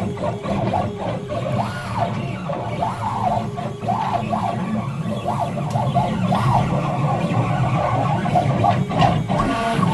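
Stepper motors of a hobby CNC machine whining as it drives a drag knife through foam board, the pitch gliding up and down over and over as the axes speed up and slow down around the curves of the cut.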